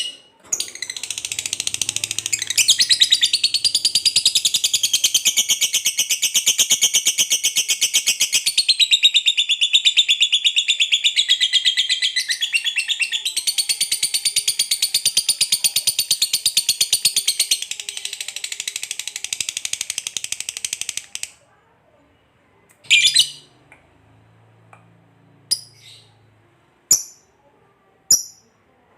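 Lovebird giving a long, very rapid chattering trill, the prized 'ngekek panjang', lasting about twenty seconds before it breaks off. After a pause, a few short sharp chirps follow near the end.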